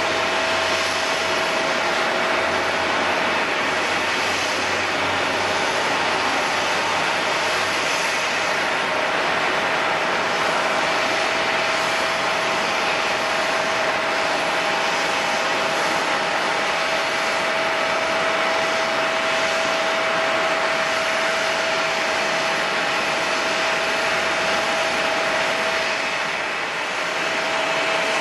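Jet airliner engines running steadily: a constant whine over a broad rush of noise, easing slightly near the end.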